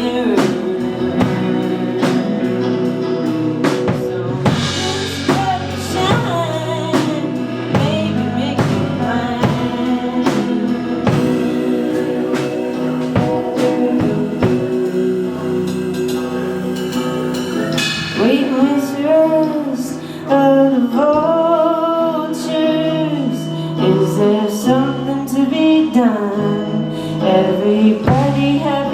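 Live rock band playing a song, with drum kit hits and singing over the instruments. The level dips briefly about twenty seconds in, then comes back louder.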